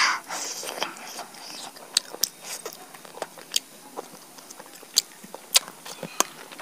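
Close-miked chewing and biting of roasted chicken eaten by hand. There is a louder bite right at the start, then scattered sharp, irregular clicks and crackles of wet mouth sounds.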